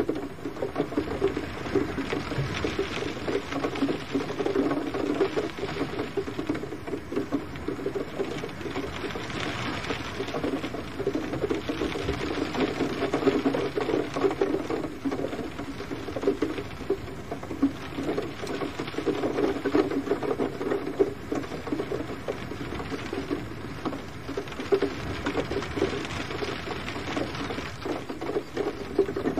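Gentle rain falling steadily: a dense patter of many small drops that swells and eases slightly in waves.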